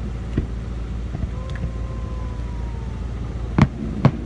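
Two sharp firework bangs about half a second apart near the end, after a faint falling whistle, over a steady low rumble.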